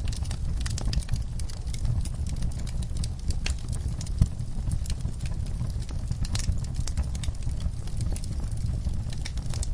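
Wood fire burning with coffee beans in it: irregular sharp crackles and pops over a steady low rumble of flames, with one louder pop about four seconds in.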